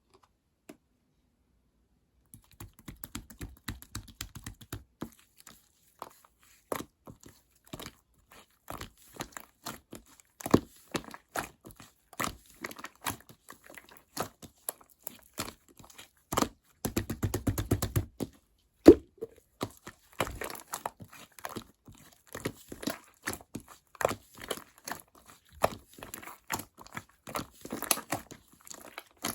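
White slime being squeezed and pressed by hand, giving rapid irregular clicking and crackling pops that start about two seconds in, with a denser, fuller run of pops a little past halfway.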